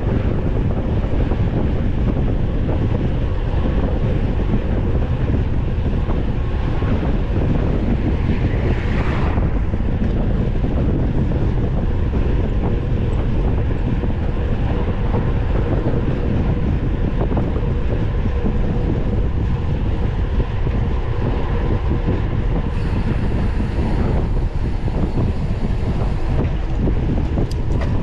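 Steady wind buffeting the microphone of a mountain bike's onboard camera while riding, a loud low rumble without words.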